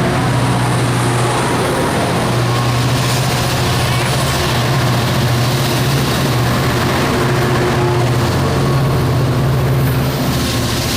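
Diesel locomotive engine running steadily, a low, even hum that holds one pitch.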